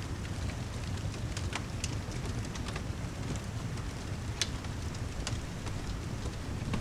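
Steady rain ambience with a low rumble, and a fireplace crackling over it: a handful of sharp pops scattered through.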